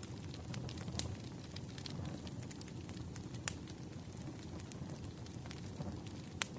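Wood fire crackling: a steady low rumble with scattered sharp pops, the loudest about three and a half seconds in and again near the end.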